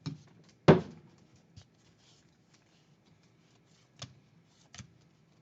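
Trading cards being handled on a tabletop: one sharp knock less than a second in, then faint rustling and a couple of light clicks.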